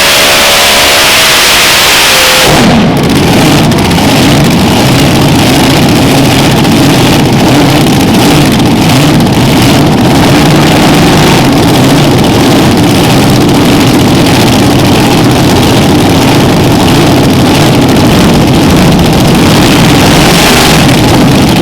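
Multi-engine 8,000 lb Unlimited Modified pulling tractor during a pull. Its engines run with a high-pitched hiss at first, then go suddenly to full power about two and a half seconds in, and run flat out, very loud and steady, from there on.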